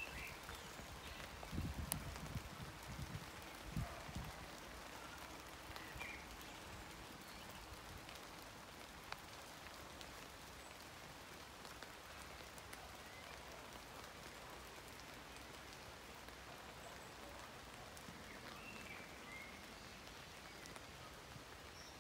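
Rain pattering steadily on horse chestnut leaves, with scattered single drips. A few low thumps come in the first few seconds.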